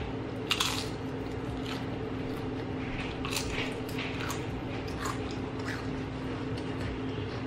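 Crunching bites and chews of spicy Doritos nacho chips loaded with ground beef and cheese. The loudest crunch comes about half a second in, followed by a series of smaller crunchy chews over a steady low hum.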